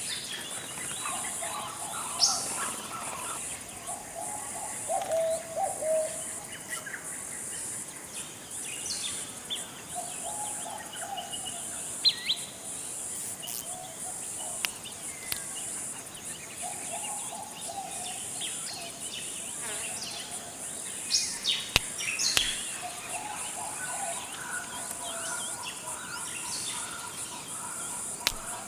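Forest ambience: a steady high insect drone under repeated bird calls, with warbling phrases and short sharp chirps coming every few seconds.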